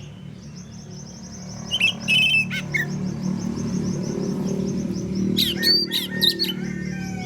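Oriental magpie-robin singing: a long run of fast, high repeated notes, broken twice by loud whistled phrases that sweep downward, once about two seconds in and again near the end. A steady low hum runs underneath.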